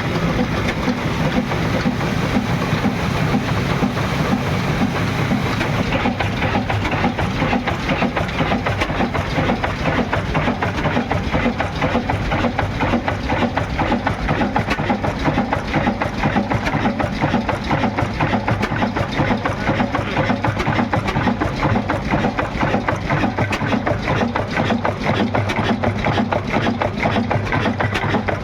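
Old Ruston Hornsby diesel engine running steadily, a fast even mechanical beat with no let-up.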